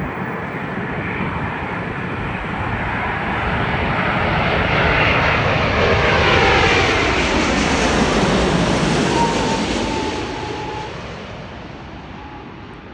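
Boeing 787-8 airliner's Rolls-Royce Trent 1000 turbofan engines passing by. The jet noise swells to a peak about halfway through and then fades away, with a whine that falls in pitch as the aircraft goes past.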